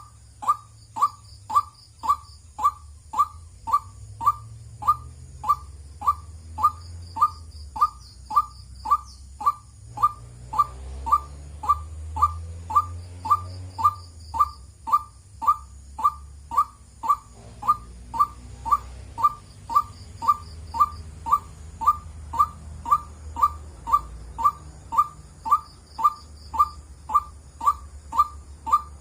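White-breasted waterhen repeating a single short call note over and over at an even pace of about two a second.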